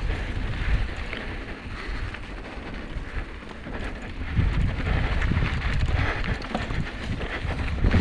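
Wind buffeting the microphone of a camera carried on a moving bicycle: an uneven low rumble that gets louder about halfway through.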